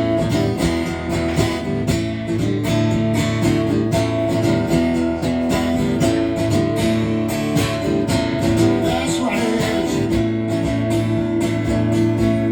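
Live band music in an instrumental break: strummed acoustic guitar over steady sustained chords, no singing.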